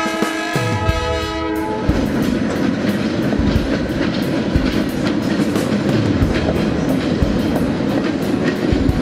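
Passing electric passenger train: its horn sounds for about the first two seconds, then the train's rumble continues with the clickety-clack of wheels over rail joints.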